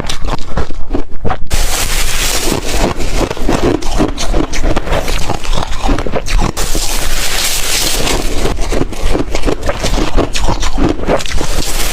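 Ice being chewed close to the microphone: a few separate crunches, then from about a second and a half in, rapid continuous crunching and grinding of ice between the teeth.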